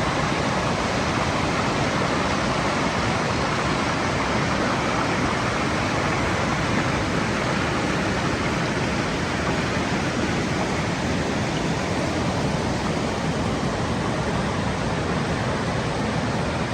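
Steady rushing of Veitch Creek's water, a constant even hiss with no breaks.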